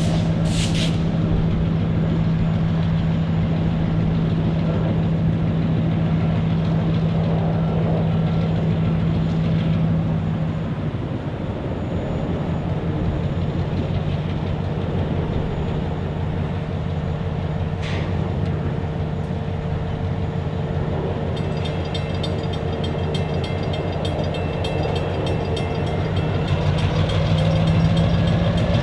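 Diesel locomotive engine running with a steady drone. Its pitch drops about a third of the way in and rises again near the end as the engine throttles up. Two short high hisses come near the start and around the middle, and a rapid ticking sets in about two-thirds of the way through.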